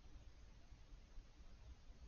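Near silence: faint steady hiss with a low rumble underneath.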